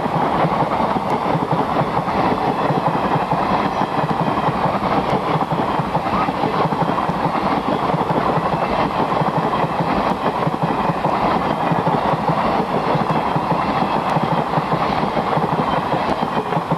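Passenger train running past at speed: a steady, loud rumble and clatter of steel wheels on the rails, with no horn sounding.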